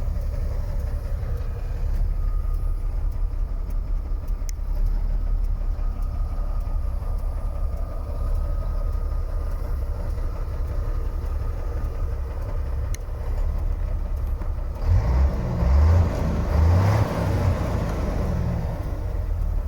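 MAN F2000 truck's diesel engine idling steadily, then revved briefly twice near the end before dropping back to idle.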